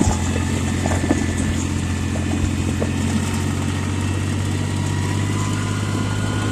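Yanmar compact tractor's diesel engine running at a steady speed, a constant low drone with a few faint clicks.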